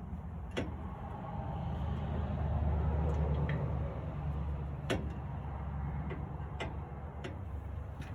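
Scattered sharp clicks and light knocks, about six of them, from hand tools and parts being worked on a pellet smoker's metal body as it is taken apart, over a low steady rumble that swells in the middle.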